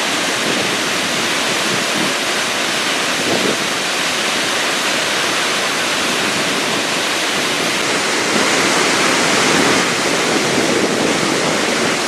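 A powerful waterfall thundering: a loud, steady rush of falling water that swells slightly for a couple of seconds near the end.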